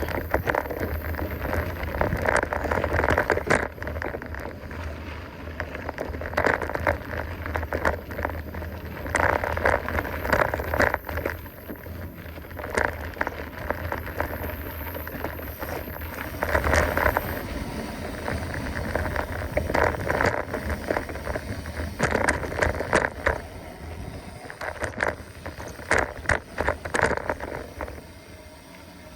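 Mountain bike being ridden along a dirt trail: tyres rolling and crunching over the ground, with frequent clicks, knocks and rattles from the bike as it goes over bumps, under a steady low rumble.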